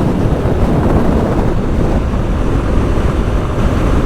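Heavy wind buffeting a helmet-mounted lavalier microphone on a motorcycle at speed, a loud steady rumble of wind and road noise.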